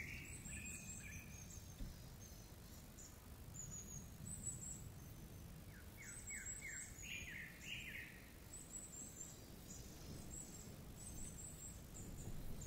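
Faint, high, thin bird calls in short strings throughout, with a lower series of quick rising notes about six to eight seconds in, over a steady low rumble.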